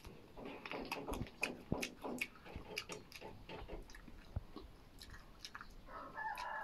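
A person biting into and chewing a raw, peeled opuntia (prickly pear) cactus pad: a run of short, wet crunches and mouth clicks.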